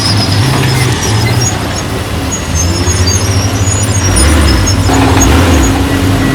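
Heavy diesel engine of earthmoving machinery running loud, its pitch stepping up and down as the load changes; a deeper, louder rumble comes in about four seconds in.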